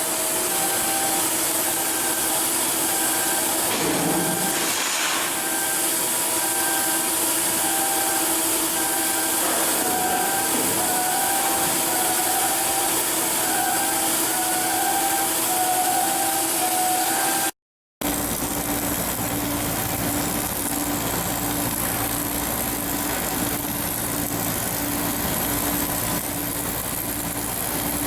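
Steady industrial machinery noise with a short repeating electronic tone sounding on and off. After a sudden break about two-thirds through, a different steady engine-like hum follows with a pulsing low tone.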